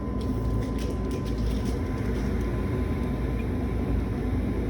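High-efficiency residential gas furnace running steadily at full heat, burner firing and blower moving air, a low even rumble.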